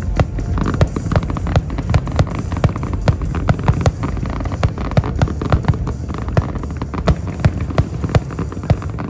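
Fireworks going off in a rapid series of sharp pops and bangs, several a second, over a steady low rumble.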